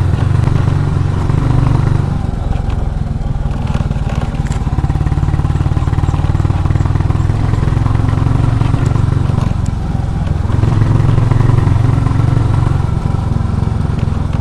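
Royal Enfield Classic 350's single-cylinder engine running steadily, its level swelling a little about two seconds in and again late on.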